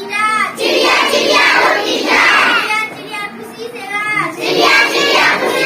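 Children singing together in short high-pitched phrases.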